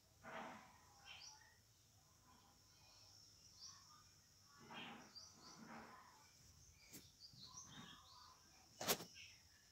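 Faint background with small birds chirping now and then, a few soft rustles, and a sharp click near the end, which is the loudest sound.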